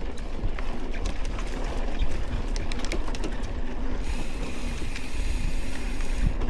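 Wind buffeting the microphone over the rattle of a mountain bike riding a rough dirt trail, with scattered sharp clicks; a faint steady high whine joins about four seconds in.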